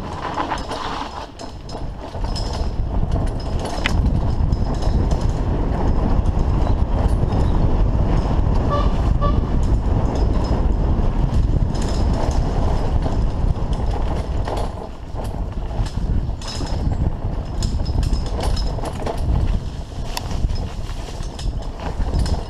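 Wind rumble on a GoPro's microphone and the rattle of a mountain bike over a rough trail while riding, a steady low noise dotted with many small clicks and knocks, getting louder about four seconds in.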